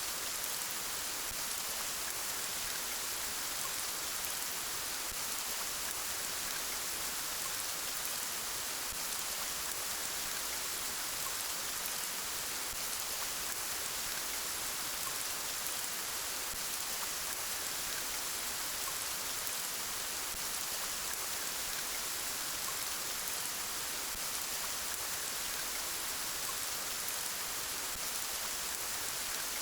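Soft, steady rain: an even hiss of many drops falling, with no change in strength.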